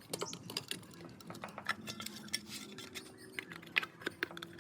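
A quick, irregular run of light clicks and taps, the loudest coming near the end.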